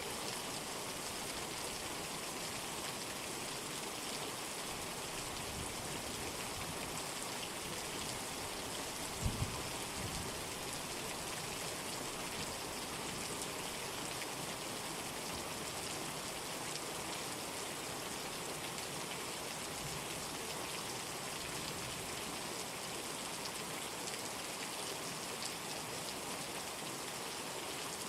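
Steady rain falling, an even hiss of drops. About nine seconds in there is one short low thump.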